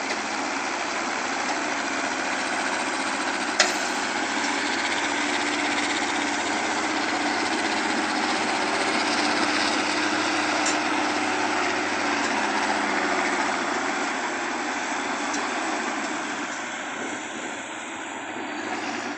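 Heavy vehicle engine running steadily under load as a tractor tows a loaded truck stuck in mud. One sharp click about three and a half seconds in.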